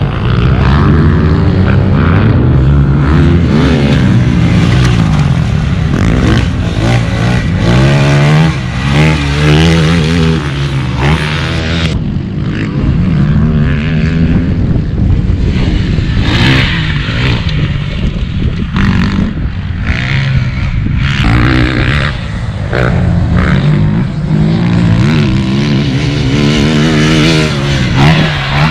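Motocross dirt bike engine being ridden hard, its pitch climbing and dropping over and over as the throttle opens and closes.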